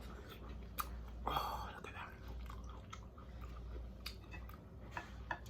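Close-up chewing of chicken wings and rice, with soft wet mouth clicks now and then.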